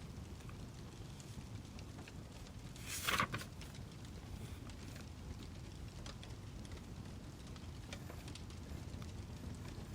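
Wood fire crackling: scattered small pops and clicks over a low steady rumble, with one louder, longer crackle about three seconds in.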